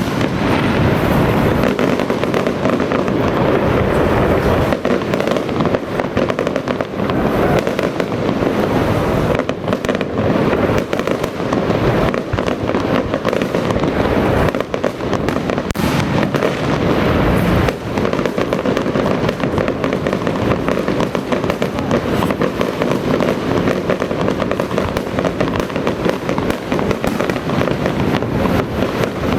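A long, dense barrage of firecrackers going off, a rapid, unbroken crackle of bangs that keeps on at full strength.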